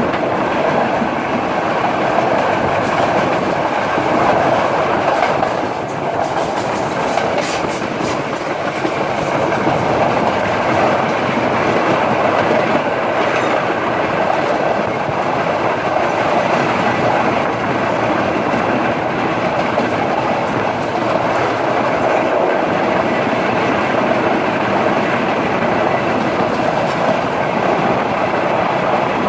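Udaya Devi express train running along the line: a steady rumble and rattle of wheels on the rails.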